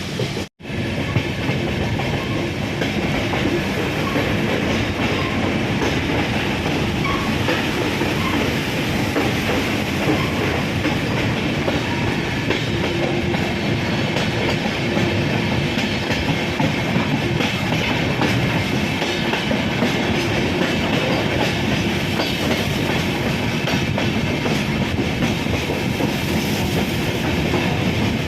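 Passenger train running at speed, heard from aboard a Vistadome coach: a steady rumble with the clickety-clack of wheels over rail joints. The sound drops out for a split second about half a second in.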